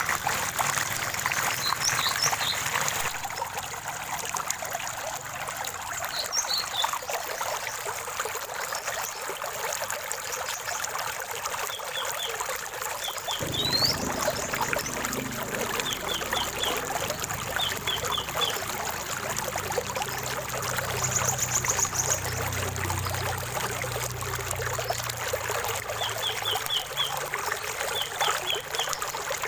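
Stream water trickling and pouring steadily, with birds chirping over it in short quick runs of three or four notes several times, and one rising whistle about halfway through.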